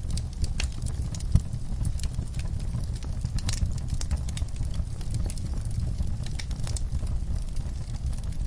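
Wood fire in a fireplace crackling: irregular sharp pops and snaps, with a louder pop about a second and a half in, over a steady low rumble.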